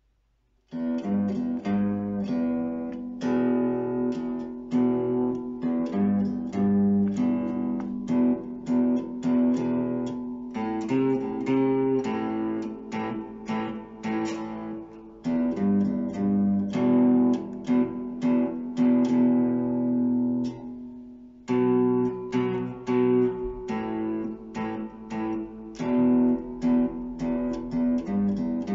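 Harley Benton TE-20HH, a Telecaster-style guitar with two humbuckers, freshly restrung and played as a tone demo: chords strummed and picked, starting about a second in, with a brief break about two-thirds of the way through.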